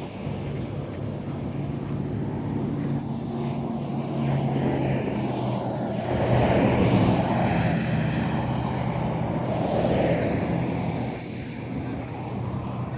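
A steady, low engine drone runs throughout and swells louder about halfway through and again near the end.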